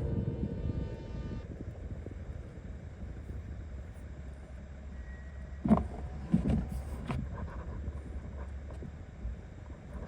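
Toyota Tacoma pickup driving, a steady low rumble of engine and road heard from inside the cab. A high pitched tone cuts off about a second and a half in, and a few short knocks come a little after halfway.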